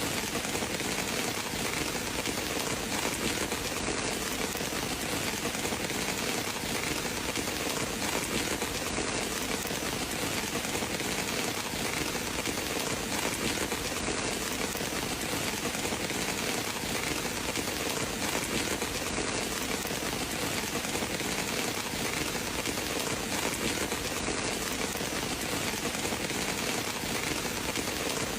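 Steady rain falling, an even hiss of drops on surfaces with no breaks or swells.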